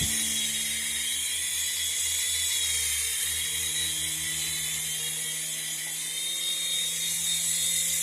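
Small electric motor of a toy RC helicopter running steadily, a high whine over a fast, even flutter.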